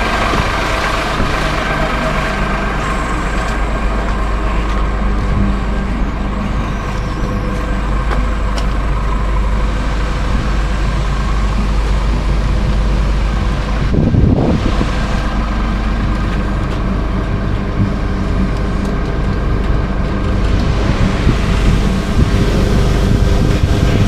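Scania R410 truck's six-cylinder diesel engine running steadily, with a brief louder surge about fourteen seconds in.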